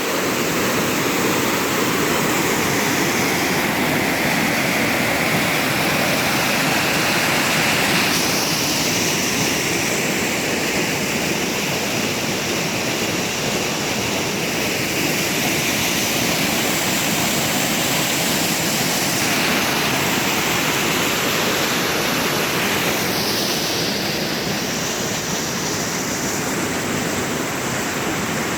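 Waterfall: a steady rush of falling water, with small shifts in its tone every few seconds.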